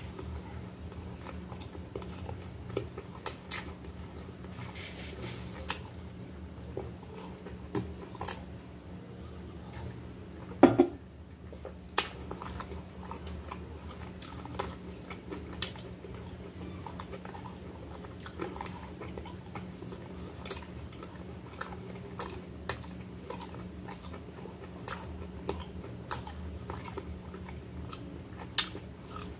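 Close-up chewing and biting of a toasted, pressed salami sandwich: crunchy bites and wet mouth clicks over a steady low hum, with a brief louder thump about eleven seconds in.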